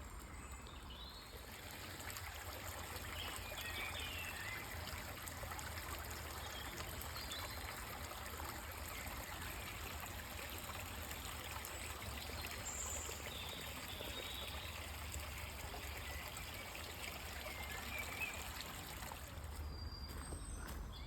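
Stream of running water, flowing steadily.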